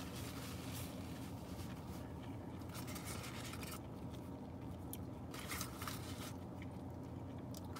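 Quiet chewing with a few faint scratchy rustles, over a steady low hum.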